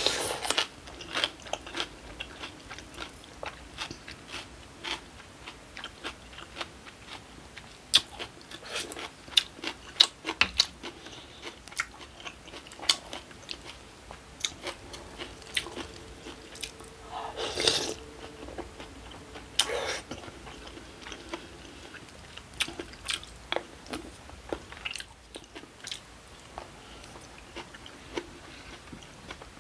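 Close-miked chewing and crunching of acorn jelly and rice in cold broth with kimchi and raw vegetables, a steady run of crisp little clicks. Two longer, louder sounds come a little past halfway.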